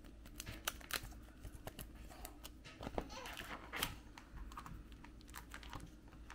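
Pokémon cards being slid into the plastic pocket pages of a card album: faint, irregular small clicks and plastic rustles.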